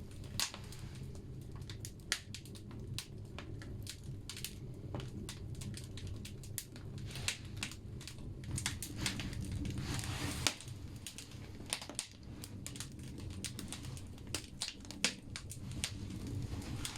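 Firewood crackling and popping as it burns in a wood-fired sauna stove: irregular sharp pops, several a second, over the low steady rumble of the fire.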